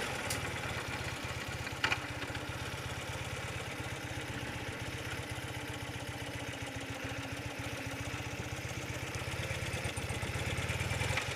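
Old BMW motorcycle engine running steadily at low revs with an even, rapid pulse, as the bike is ridden slowly. A short click about two seconds in.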